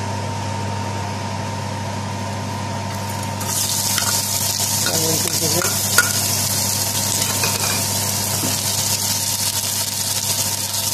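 Hot vegetable oil in a frying pan bursts into loud, steady sizzling about three and a half seconds in as chopped onion goes in, with a few clicks of a utensil stirring it.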